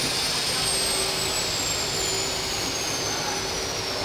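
Train sound effect: a steady hiss with a high whine falling slowly in pitch, which cuts off suddenly at the end.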